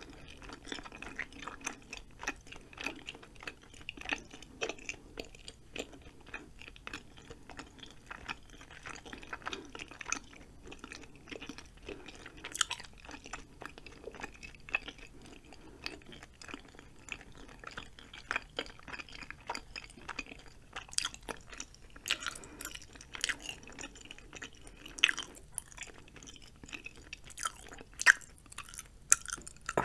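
Close-miked chewing of soft, chewy noodles and rice cakes: a steady run of small wet clicks and mouth sounds, with a few sharper clicks later on.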